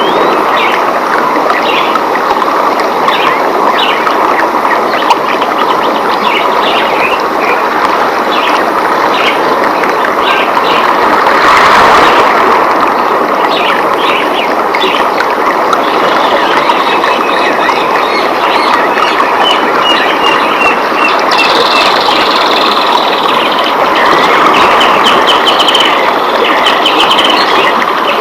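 Rainforest ambience: steady rain hiss with many birds chirping over it. Rapid trilled calls come several times in the second half, and a brief swell in the hiss about twelve seconds in.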